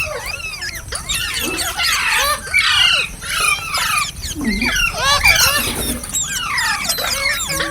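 Green parrots (rose-ringed parakeets) screeching and chirping in a rapid run of shrill calls that glide up and down in pitch, several often overlapping.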